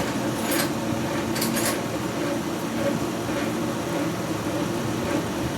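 A machine running steadily with a low hum, with a couple of faint clicks about half a second and a second and a half in.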